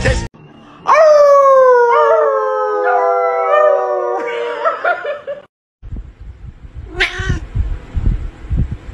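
A long howl sliding slowly down in pitch for about four seconds: a dog on a sofa howling along with people. About seven seconds in, a short cry from a white cat.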